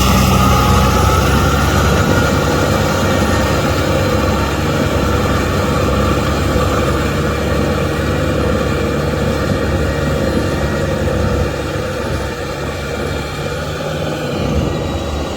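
Kubota M6040SU tractor's diesel engine running steadily while it drives a rotavator through a muddy field, with a faint whine over the low engine hum. It eases off slightly in the last few seconds.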